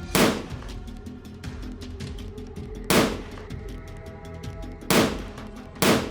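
Four gunshots, unevenly spaced (about a second in, near the middle, and twice close together near the end), each with a short echoing tail, over background music.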